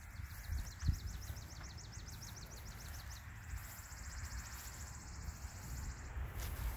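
Wild birds singing: a quick trill of repeated downslurred high notes for about three seconds, then a faster, higher, even trill for about three seconds more, over a low background rumble with a soft thump about a second in.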